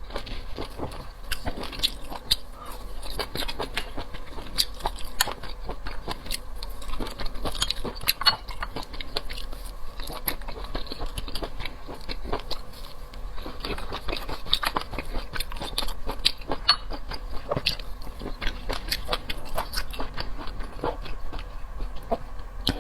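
Close-miked chewing and eating mouth sounds, a dense run of small wet clicks and crunches with no pauses.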